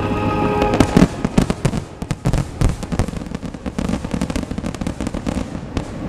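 Fireworks display: a dense, rapid barrage of bangs and crackling reports, many per second.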